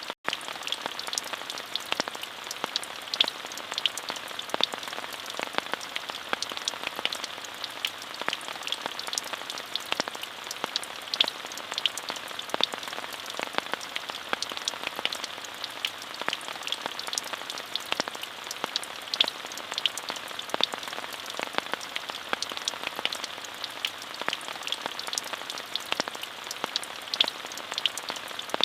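Steady rain: an even hiss with many separate drops ticking sharply against it.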